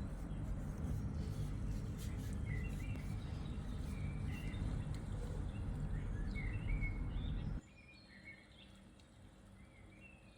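Small birds chirping in short, repeated calls, over a steady low rumble of background noise that cuts off suddenly about three quarters of the way through.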